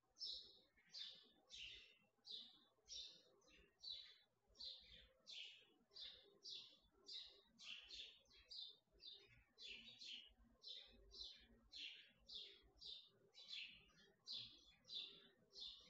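Faint bird chirping over and over, short chirps about two a second, each dropping slightly in pitch.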